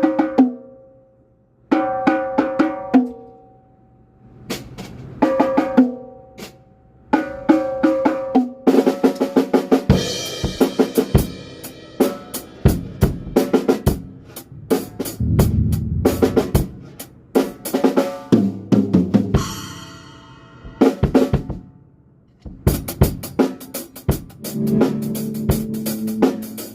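Tama snare drum struck in short quick bursts of strokes, each burst ringing on with a clear pitched overtone. After about nine seconds the rest of the drum kit joins in, with bass drum and cymbals played around the snare in fills and grooves.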